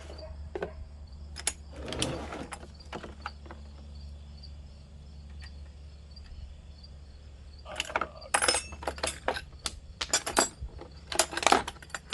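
A ratchet wrench and socket clicking and clinking in quick, irregular runs from about eight seconds in, working the nuts off a mower's air cleaner housing; a shorter rattle of metal comes about two seconds in.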